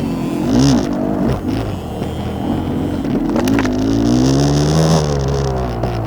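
Enduro motorcycle engine revving up and down as the bike is ridden over rough, obstacle-strewn ground, with a sharp knock about three and a half seconds in.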